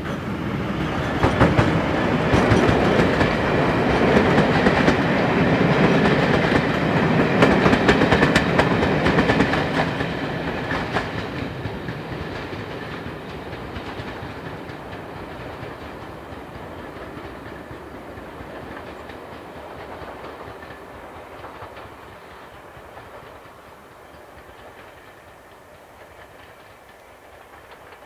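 A passenger train passing close by and running away along the line, its wheels clicking over the rail joints. The sound peaks a few seconds in and then fades steadily.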